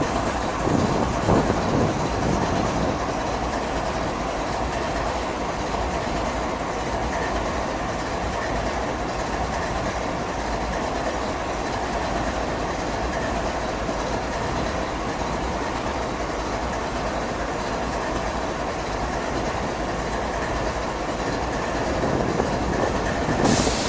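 Train cars rolling past on the rails, a steady rumble of wheels with some clickety-clack, with a brief louder rush near the end.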